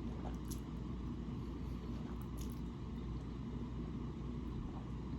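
Quiet mouth sounds of someone chewing lo mein noodles, with a few faint wet clicks, over a steady low hum.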